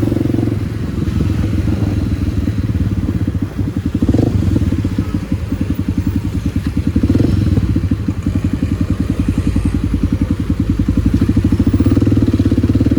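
Kawasaki D-Tracker 250's single-cylinder four-stroke engine running under way through a White Brothers aftermarket exhaust: a steady stream of exhaust pulses whose loudness dips briefly a couple of times.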